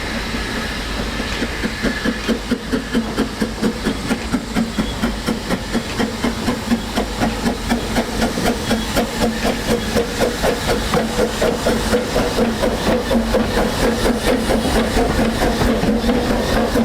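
Narrow-gauge steam locomotive working a train, its exhaust chuffing in a steady beat of about four a second over a background hiss of steam.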